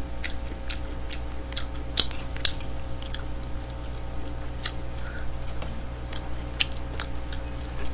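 Chewing and mouth clicks from eating smoked chicken close to a microphone: a string of irregular sharp little clicks and smacks over a steady low hum.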